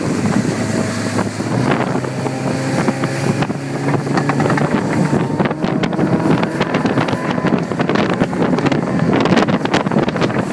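Motorboat engine running at a steady hum, with wind buffeting the microphone more heavily from about halfway through.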